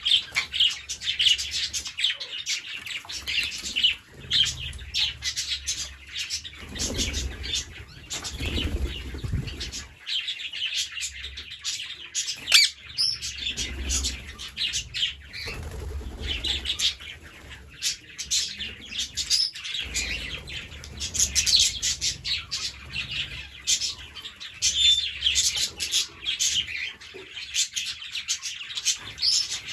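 Green parrots chirping and chattering continuously, many short overlapping calls, with low thuds and rustles now and then.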